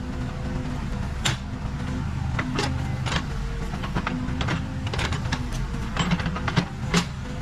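Case 580 Super K backhoe loader's diesel engine running steadily under work, with irregular sharp clanks and knocks from the machine's bucket and linkage.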